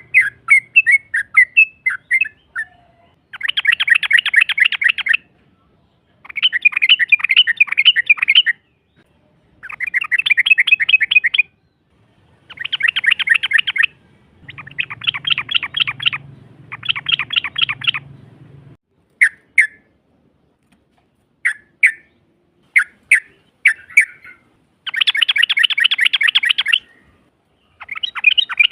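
Yellow-vented bulbul (trucukan) song: loud, rapid rolling chatter of about ten notes a second, delivered in bursts of about two seconds with short pauses between them. Near the middle the bursts give way to a few scattered single sharp notes before the rolling chatter resumes.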